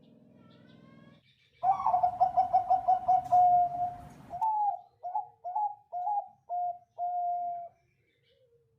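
Zebra dove (perkutut Bangkok) singing its cooing song: a fast run of about ten short, clear notes, then five slower, separate coos.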